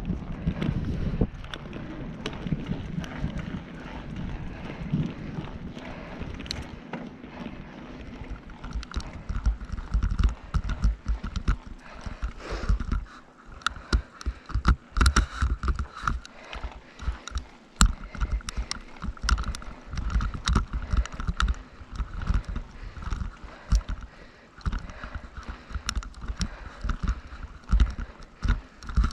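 Strong gusty wind buffeting the microphone in irregular rumbling surges, with rapid clicking and rattling throughout and a thin, faint whistle entering about a third of the way in.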